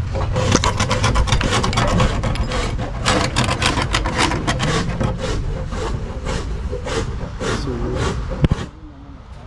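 Rapid, irregular scraping and rubbing, ending with a sharp knock about eight and a half seconds in.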